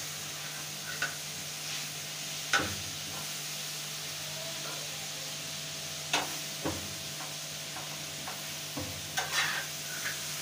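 Chicken and onion slices sizzling in ghee in a shallow black pan over a gas flame, a steady hiss, while a metal spatula stirs them and now and then clacks and scrapes against the pan. Sharp clacks come about two and a half seconds in, twice around six seconds, and a few near the end.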